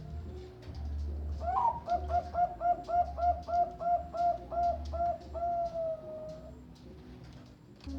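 Zebra dove (Bangkok perkutut) singing: a quick run of about a dozen short coos, roughly four a second, ending in one long drawn-out note.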